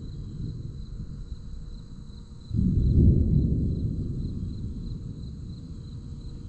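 Thunder rumbling from an approaching storm, swelling suddenly about two and a half seconds in and fading slowly away. Crickets chirp steadily underneath.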